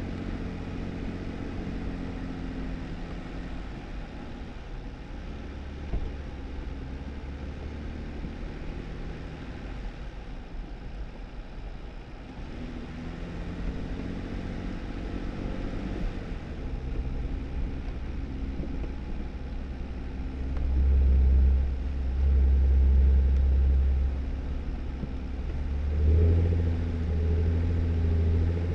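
2018 Jeep Wrangler driving a snowy dirt road: engine running with a steady low rumble of tyre and road noise. The rumble swells louder twice in the last third.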